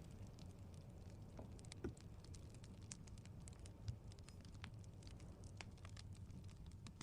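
Near silence: a low steady hum with faint scattered clicks and ticks, a slightly firmer click about two seconds in and another near four seconds.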